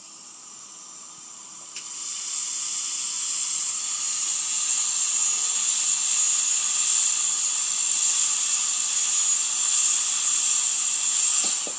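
Dental high-volume evacuator suction drawing air through a SAFEARS noise-attenuating modified suction tip: a steady high airy hiss that grows louder about two seconds in.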